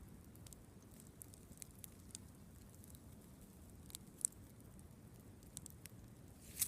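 Wood campfire crackling faintly, with small irregular pops and snaps. A louder pop comes about four seconds in and another at the very end.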